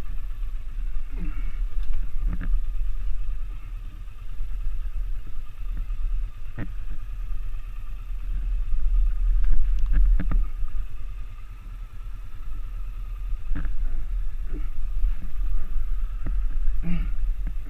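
ATV engine running while riding, under a heavy low rumble, with scattered short knocks and rattles. The loudness swells and falls back a few times.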